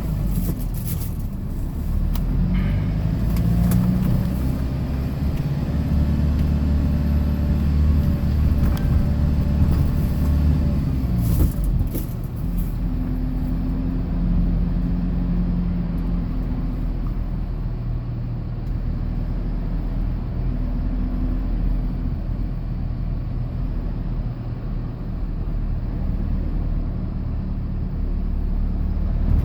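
Hyundai Porter II box truck driving, with its engine and road noise heard from inside the cab. The engine's pitch rises and falls several times in the first half, then holds steadier.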